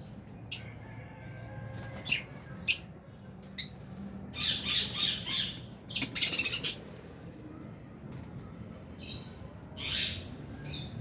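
Lovebirds calling with sharp, shrill squawks and chirps. A few short calls come in the first three seconds, then a longer run of harsh chatter, the loudest burst of it in the middle, and one more call near the end.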